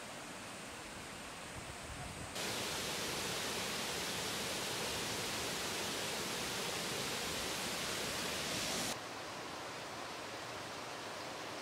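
Steady rushing of a mountain valley stream. It turns abruptly louder and brighter about two seconds in and drops back just as suddenly about nine seconds in.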